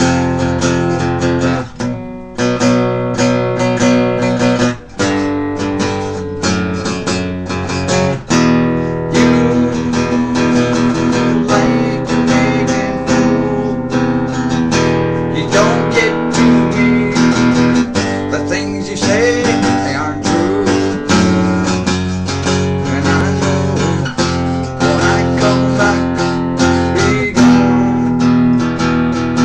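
Acoustic guitar music, strummed and plucked with a steady rhythm.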